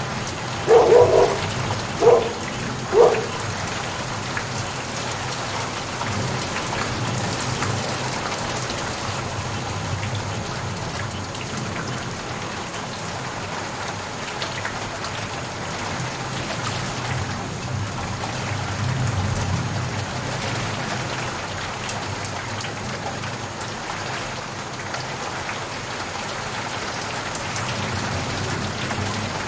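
Steady rain falling, an even hiss. About a second in, three short louder sounds come roughly a second apart.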